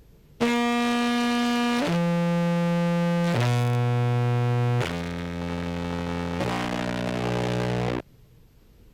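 Contrabass clarinet played through a fuzz and compressor pedal chain, giving a buzzy, distorted tone. It plays five sustained notes that step down and then back up, ending abruptly. The run is played to test how evenly the compressor holds the notes' volume.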